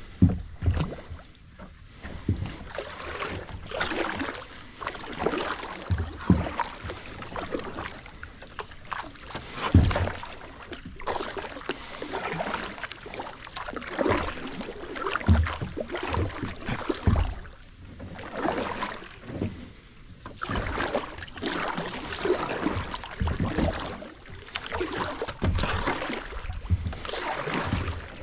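Kayak paddling: repeated splashing paddle strokes in the water, with short low thumps every second or two.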